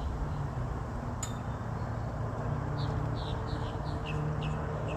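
A small bird chirping a quick series of short, high notes, about three a second, starting a little past halfway, over a steady low hum.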